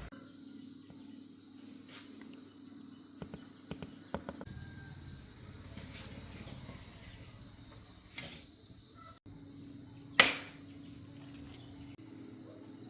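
Insects trilling steadily, with scattered sharp knocks: a quick cluster about three to four seconds in, and the loudest single knock about ten seconds in.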